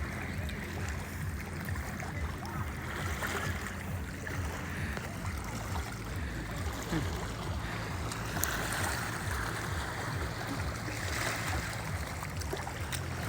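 Lake water moving and splashing, over a steady low motor hum of the kind a boat engine on the water makes.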